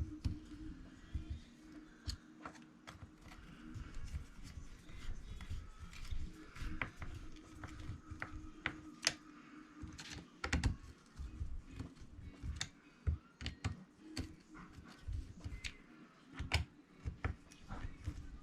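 Scattered light clicks and taps of a small screwdriver and plastic parts being handled while an E-Revo 2.0 RC truck's differential is put back together, over a faint steady hum.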